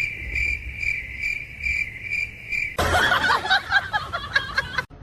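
Cricket chirping: a steady high trill pulsing about twice a second. About three seconds in it gives way to a busier, chattering sound that cuts off abruptly just before the end.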